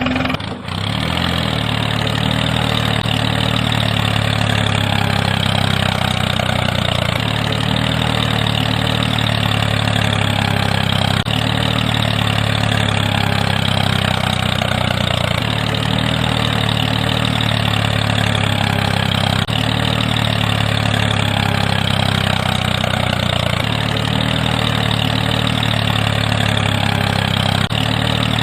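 Tractor engine idling steadily, its sound repeating about every four seconds like a looped recording.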